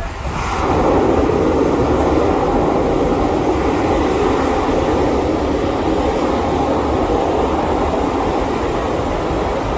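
Passenger train rolling along the track, heard from on board: a loud, steady rumble and rattle of the cars and wheels on the rails, building about half a second in.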